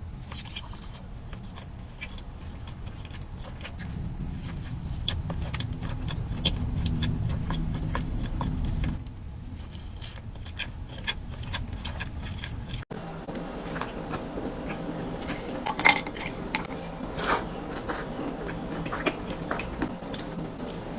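Close-miked eating sounds of cookies being chewed: a run of small wet clicks and mouth noises, with a low rumble of background noise in the first part. About 13 s in there is an abrupt cut to a different clip, and similar clicky chewing carries on over a quieter background.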